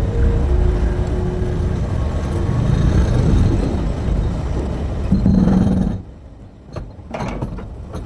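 Large hydraulic excavator's diesel engine running loud and low under load, cutting off abruptly about six seconds in, followed by two brief knocks.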